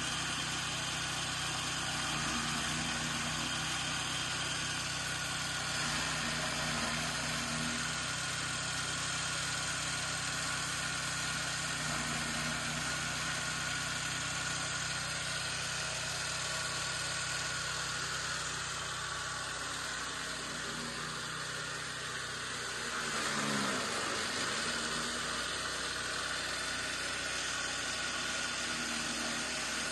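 Powered chaff cutter running steadily with an even, engine-like hum. About three-quarters of the way through, its pitch drops sharply for a moment and then recovers.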